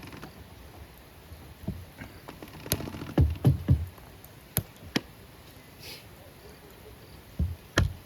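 Irregular knocks and taps, with a cluster of three heavy thumps about three seconds in and two more near the end.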